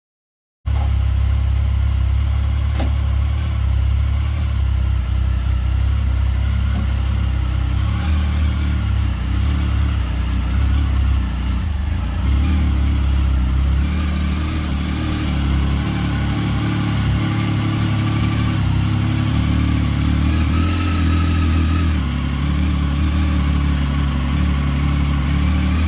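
Motorcycle engine running, starting abruptly about half a second in and holding a steady low note that swells and eases a little.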